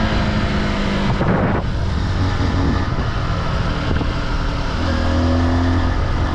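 Off-road vehicle engine running under way, with a rough noisy rush. The engine speed drops about a second in and picks up again near five seconds.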